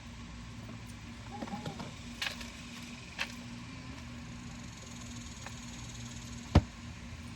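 An engine idling steadily, with a few light clicks and one sharp knock near the end.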